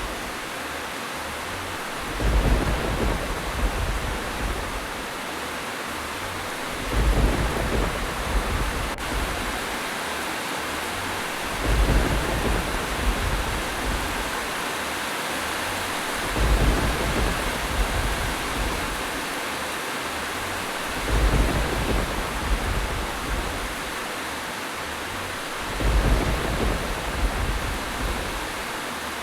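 Steady rain hiss, with a low rumble swelling up at even intervals of about four to five seconds, six times.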